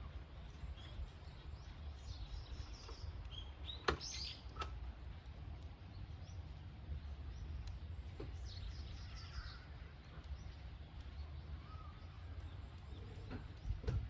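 Campfire burning with a steady low rumble and a few sharp crackling pops, the loudest about four seconds in. Short high chirping calls sound on and off behind it.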